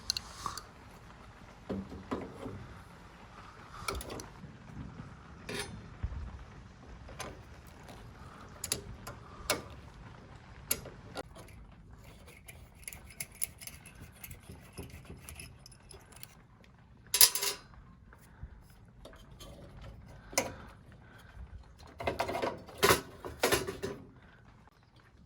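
Intermittent metallic clinks and knocks of tools and small metal parts being handled while working on an espresso machine's group head, with one louder clatter about two thirds of the way through and a run of clinks near the end.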